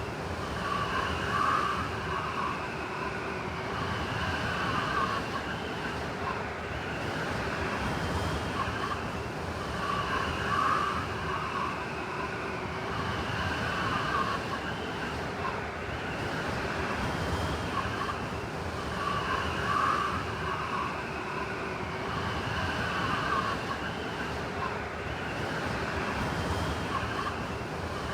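Blizzard wind howling without a break, with high whistling tones that swell and fade every few seconds.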